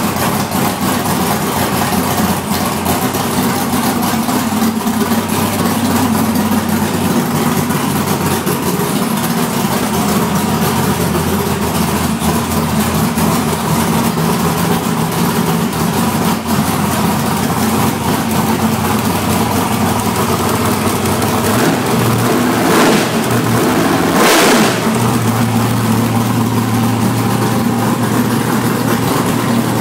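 A brand-new small-block Chevy V8 drag-race engine runs on its first start-up, idling steadily. About 23 and 24.5 seconds in there are two brief revs.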